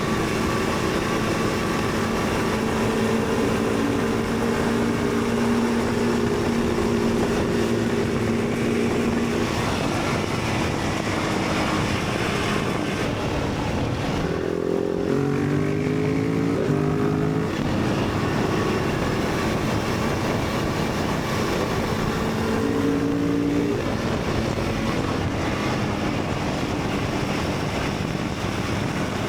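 Motorcycle engine running at a steady road speed under heavy wind rush. About halfway through, the engine revs up in a few rising steps as it accelerates through the gears, and it picks up once more a little later.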